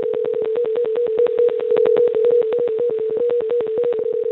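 A steady telephone line tone, pitched at about 500 Hz and chopped by rapid clicks about ten times a second, heard over the phone connection after the call cuts off.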